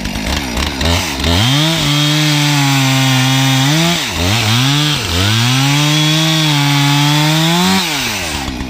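Chainsaw cutting up a fallen tree, its two-stroke engine revved to full throttle about a second in, easing off twice around the middle, then running high again before dropping back near the end.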